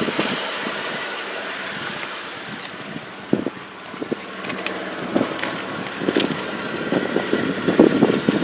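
Mitsubishi Montero's engine idling with a steady hum that fades over the first few seconds. From about three seconds in come scattered knocks and handling bumps, growing busier toward the end, with wind on the microphone.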